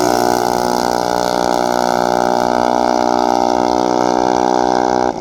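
Junior dragster's engine running loud and steady at high revs, its pitch holding nearly constant.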